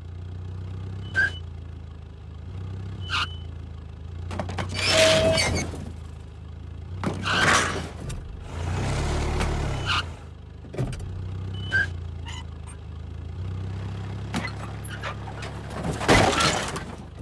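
Car engine running with a steady low hum while the car is maneuvered, with short clicks scattered through it and three louder noisy bursts, the last the loudest, near the end.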